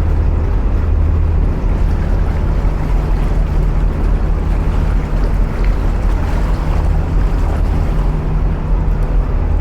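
Narrowboat diesel engine running steadily inside a canal tunnel, a loud low drone. The boater takes most of the noise for the old boat following close behind, which has a Lister or similar engine.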